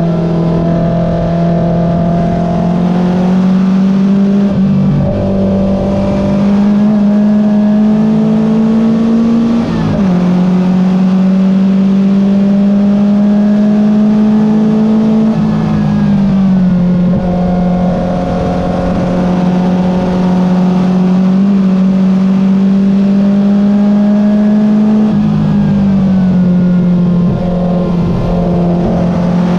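Porsche 914 race car's engine under racing load, heard from inside the cockpit. The revs climb slowly and drop sharply about ten seconds in and again around sixteen and twenty-five seconds in, with a smaller dip near five seconds.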